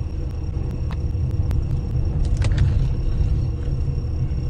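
A car driving, with a steady low road-and-engine rumble. There is a run of faint clicks in the first two seconds and a brief brighter noise about halfway through.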